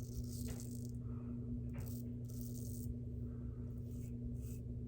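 A shavette razor with a half DE blade scraping through lathered stubble in a series of short strokes, over the steady hum of a laundry machine running.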